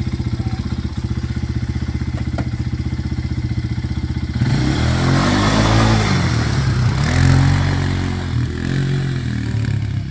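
ATV engine idling with an even pulse, then revved up and down from about four seconds in, louder and with a rougher noise over it, before easing back toward idle near the end.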